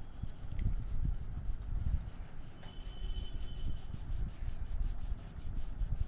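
Colouring strokes rubbing quickly back and forth on paper, over a low rumble.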